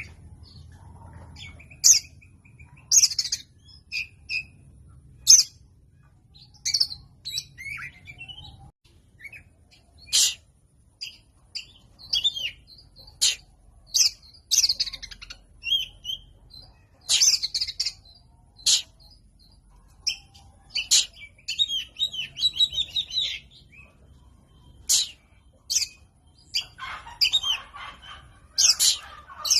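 Oriental magpie-robin (kacer) singing in short, sharp whistled and chirped phrases, spaced irregularly, with denser chattering runs about two-thirds of the way in and near the end.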